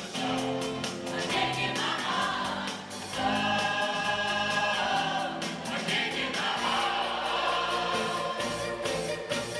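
Choir singing a 1970s pop song in full harmony, over a band with a steady drum beat.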